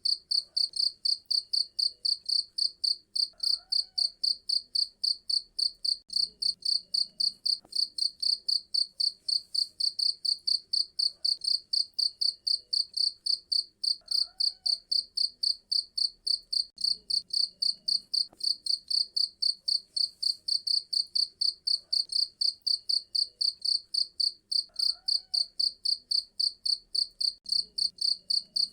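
Cricket chirping: a steady, high-pitched train of chirps repeating several times a second without a break.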